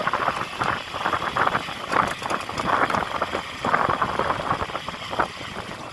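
A motor vehicle's engine running, with an uneven noise over it.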